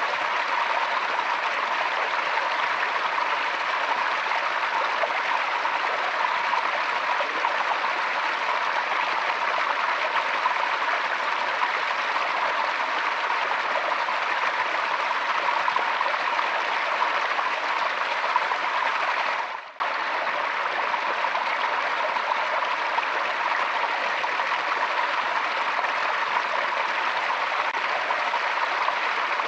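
Forest stream flowing steadily, an even rush of water over stones. About two-thirds of the way through it fades out and cuts for a moment, then resumes at full level, like an edit splice.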